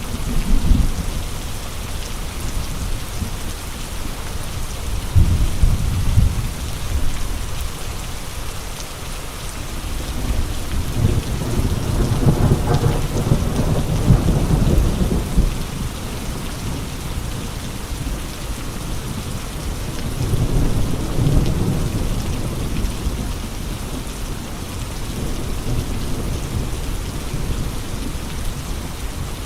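Steady rain with low rumbling swells that come and go, the largest about halfway through.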